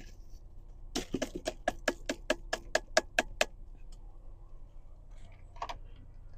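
A quick run of about a dozen sharp, even taps, about five a second, lasting some two and a half seconds: old coffee grounds being knocked out of a coffee maker's filter.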